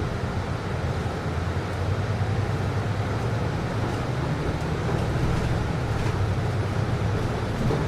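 Steady low hum and rumble inside an air-conditioned city bus, with the air conditioning running; a little louder from about two seconds in.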